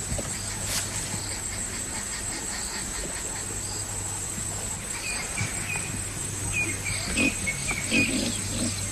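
Steady high-pitched drone of insects, crickets or similar, with short chirping calls joining in from about five seconds in and a few low animal sounds near the end.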